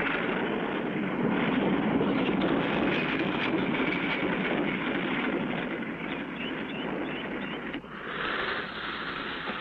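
Propeller airplane engine sound effect from an old cartoon soundtrack, a steady dense drone as the plane comes in to land. It cuts off abruptly about eight seconds in and gives way to a slightly different noise.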